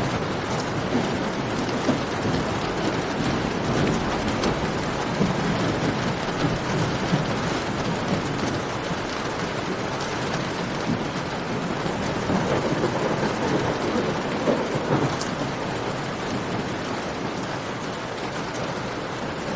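Steady rain falling, mixed with the crackle of a campfire, over a low rumble that swells a little past the middle.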